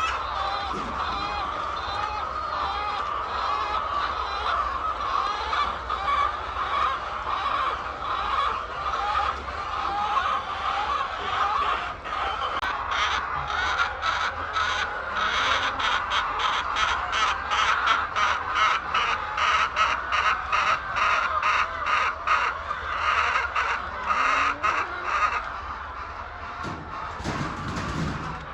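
A large flock of chickens clucking and squawking all at once in a dense, continuous chatter. Through the middle stretch a quick run of sharp taps, about three a second, runs along with the flock.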